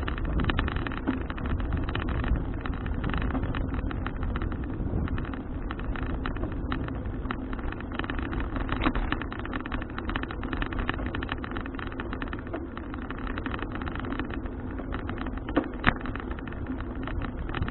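Wind buffeting an action camera's microphone while riding a bicycle, with low tyre and road rumble and scattered light rattles from the bike. It cuts off suddenly at the end.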